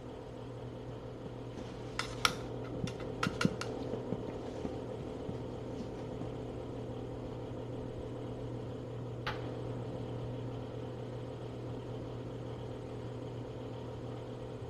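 Steady low mechanical hum, with a quick run of sharp clicks about two seconds in and a single click near the middle.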